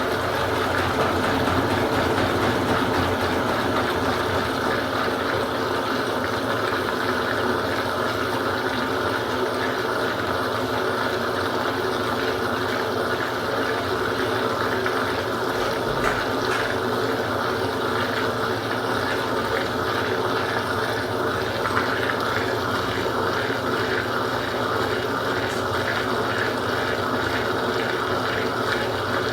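Consul Supercargo 8 kg top-load washing machine running, a steady motor hum with rushing water.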